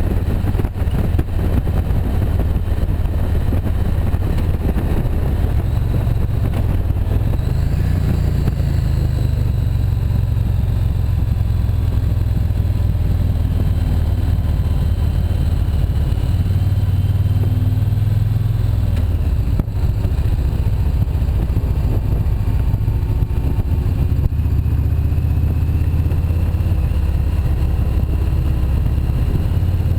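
Motorcycle engine running at speed, heard from the bike itself. Its pitch climbs about a quarter of the way in and drops back just past halfway as the throttle changes, over steady wind rush on the microphone.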